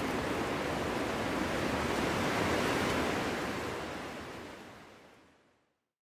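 Wind blowing steadily as a continuous rushing noise, fading out to silence over the last two seconds.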